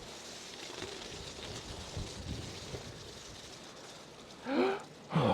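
Steady hiss of bicycle tyres rolling through wet snow and slush on the road. Near the end the rider gives two short vocal sounds, the second cut off at the close.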